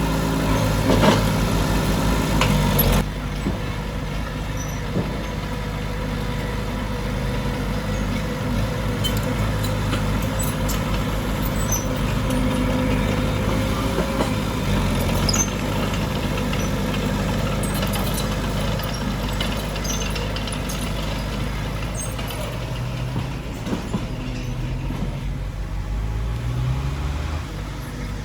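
Heavy diesel earthmoving machinery running steadily, with a drop in level about three seconds in.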